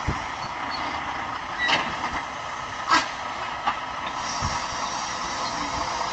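Vehicle running steadily, with a constant hiss and three short, sharp knocks a little under two, three and four seconds in.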